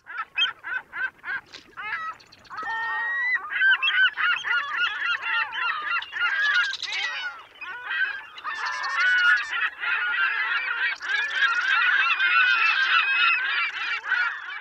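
A flock of geese honking: a few separate calls at first, then from about three seconds in a dense chorus of many overlapping honks.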